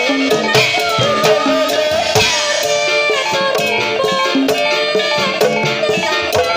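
Javanese gamelan music accompanying a kuda kepang (ebeg) dance: hand drums beat a busy rhythm under steady ringing metal notes and a wavering melody line.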